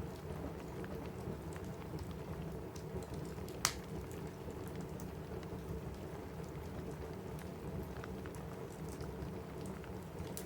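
Steady rain on a cabin roof with a wood fire crackling in the fireplace: scattered small snaps and one sharp, louder pop a little under four seconds in.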